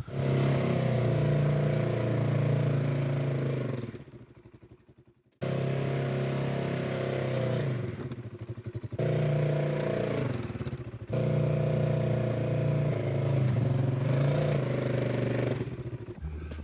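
Snow-plow vehicle's engine running under load while pushing and piling snow. The engine note shifts a little in pitch and comes in several stretches, cutting out abruptly about four seconds in and returning a second or so later.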